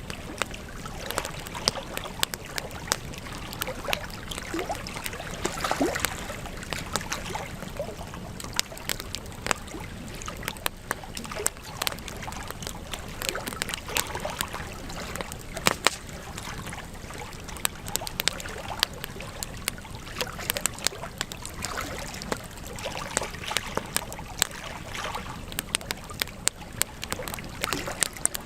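Wood fire crackling in a fireplace: frequent irregular sharp pops and snaps over a steady soft rush of flame.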